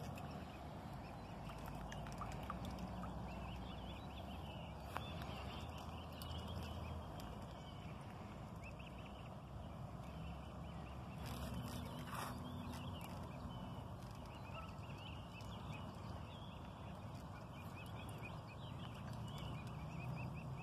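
Faint, high chirping bird calls in short runs, a few seconds in and again around the middle, over a low steady background rumble.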